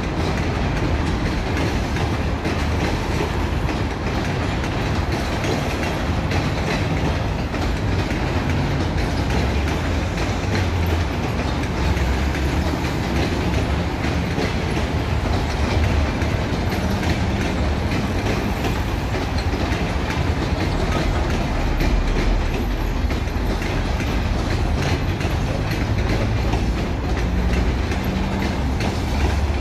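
Passenger coaches of a departing train rolling past, with a steady rumble and the wheels clicking over rail joints.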